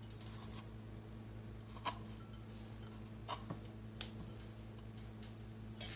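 A few light clinks against a bowl as cooked lasagna noodles are laid into it, over a steady low hum.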